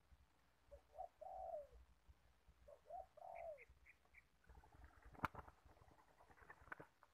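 A spotted dove cooing faintly, two phrases each made of short notes ending in a longer falling note. After the second phrase come four quick high chirps, and about five seconds in there is a single sharp click.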